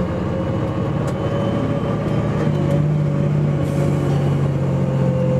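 Bus engine running steadily, with a stronger engine tone coming in about two and a half seconds in.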